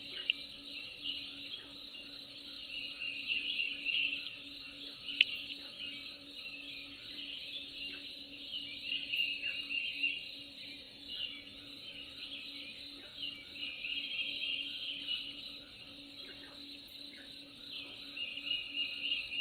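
A dense, continuous chorus of chirping insects and birds, high-pitched, swelling and fading in waves, with a faint steady low hum underneath. Two sharp clicks stand out, one right at the start and one about five seconds in.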